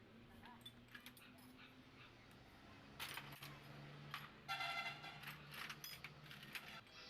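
Light metallic clinks and jingling of small metal tools or parts being handled, busier in the second half, with a short ringing tone a little past the middle.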